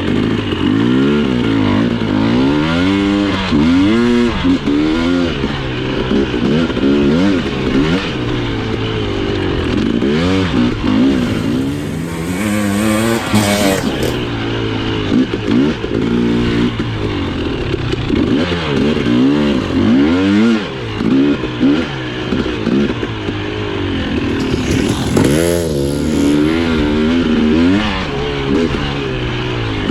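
Husqvarna TE 300i's single-cylinder two-stroke engine being ridden on a trail, its revs climbing and dropping back over and over as the throttle is worked through the gears and turns.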